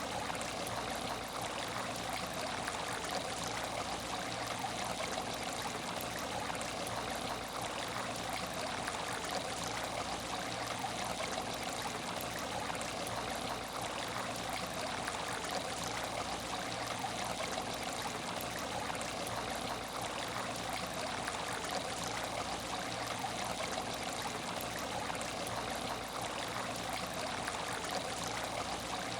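Steady trickling of water circulating in a fishless aquarium tank, with a faint steady hum underneath.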